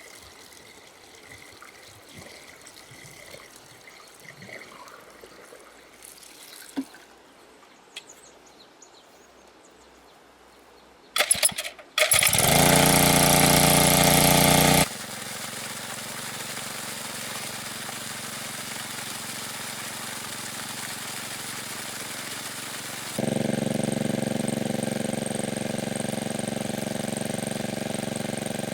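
A small motor-driven engine is started about twelve seconds in after a couple of short false catches. It runs loud and fast for about three seconds, then settles to steady running, and picks up again near the end.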